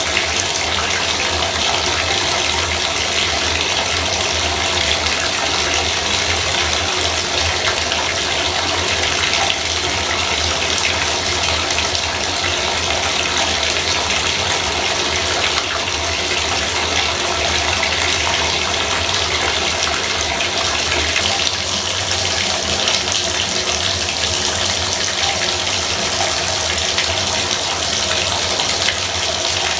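Bathtub faucet running steadily, a constant gush of water into the tub.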